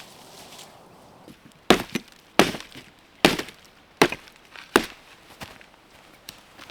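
Rhythmic hammering: six sharp knocks about three quarters of a second apart, typical of driving a tent stake into the ground to pitch an awning.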